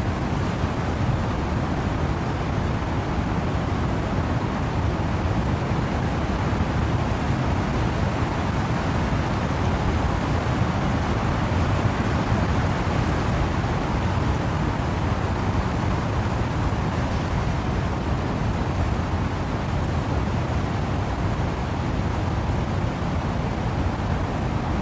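Steady windy rain ambience: wind rushing through trees with falling rain, an even, unbroken noise heaviest in the low end that swells slightly toward the middle.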